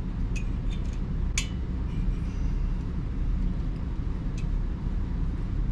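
A steady low rumble of background noise with three light clicks from hand work on engine parts, the sharpest about a second and a half in.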